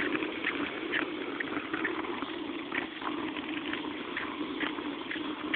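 Bicycle riding over a rough road: a steady rolling rumble with scattered light rattling clicks.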